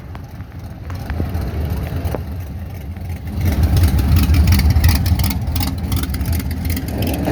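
Car engine running with a deep, steady rumble that grows louder about three and a half seconds in.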